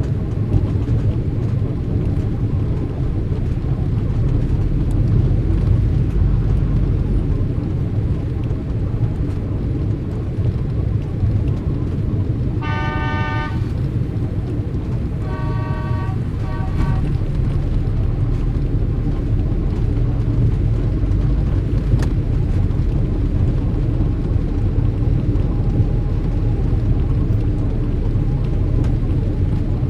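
Street traffic: a steady rumble of passing cars. A car horn sounds for about a second near the middle, then gives two shorter honks a couple of seconds later.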